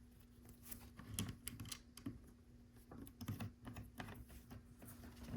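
Faint, irregular clicks and taps of small plastic LEGO pieces being handled, in uneven clusters, with a louder knock at the very end.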